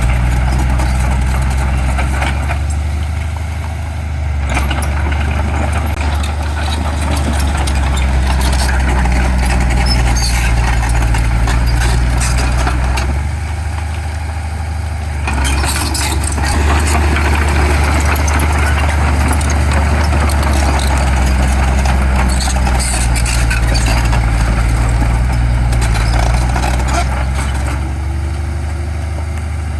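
Heavy diesel engine of earthmoving machinery running with a steady low drone, easing off briefly twice as the load changes.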